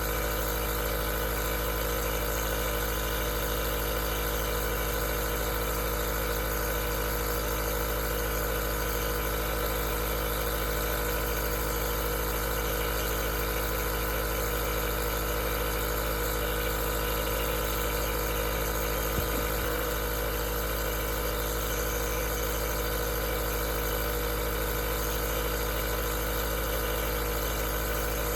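Aerosol nebulizer's compressor running steadily: an even motor hum with a layer of air hiss. There is one faint click about two-thirds of the way through.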